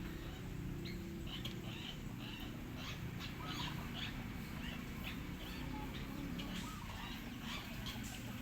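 A bird giving many short, high chirps in an irregular series, over a steady low rumble.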